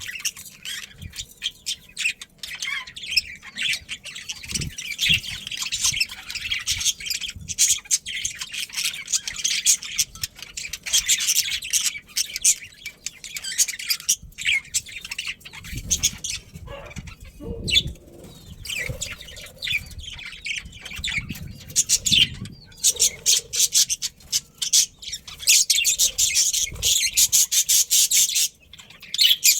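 A group of budgerigars chattering continuously in fast, high chirps and warbles, with a few low thumps in the middle.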